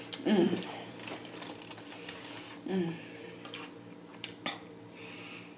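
Close-up eating sounds: a crinkle-cut sweet potato fry being chewed, with a run of crisp little clicks. Two short hummed vocal sounds come from the eater.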